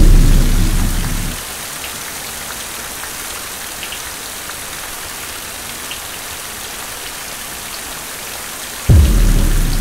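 Steady heavy rain. A deep boom fades away over the first second, and another hits about nine seconds in.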